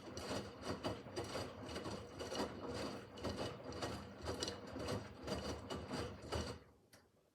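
Miele W5801 WPS front-loading washing machine on its easy-care 30 °C wash: the drum turning with a rubbing, clattering rhythm of pulses a few times a second as the laundry tumbles. The drum stops about six and a half seconds in.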